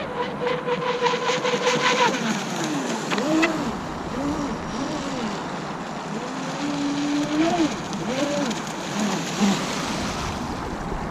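Radio-controlled flatbottom drag boat's motor running: a steady whine for about two seconds, then its pitch rises and falls over and over to the end, over a noisy background.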